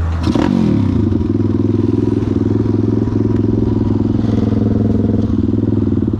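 Pit bike's single-cylinder engine: revs drop with a sharp clack about a third of a second in, then it runs steadily at an even engine speed.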